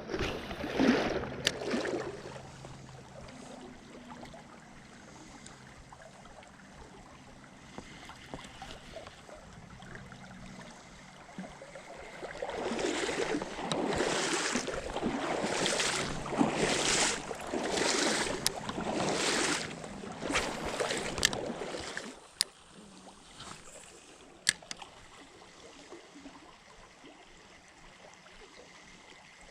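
Legs wading through a flowing river, a run of swishing splashes about once a second for some ten seconds, over the steady rush of the stream.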